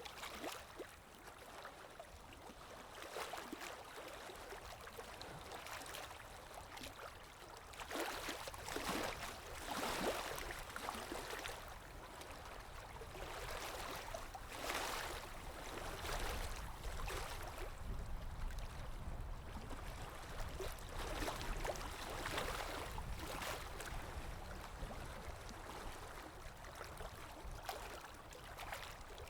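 Underwater water ambience: a muffled low rumble with swells of rushing, bubbling water every few seconds.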